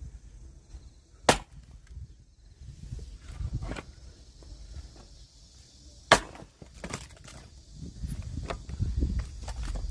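Two sharp axe strikes on oak logs being split for firewood, about five seconds apart, with smaller knocks of wood in between.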